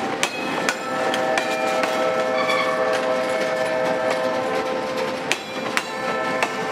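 Steel-wheeled freight cars rolling past on the rails, making a steady metallic squeal of several held tones, with sharp metallic clanks at irregular moments.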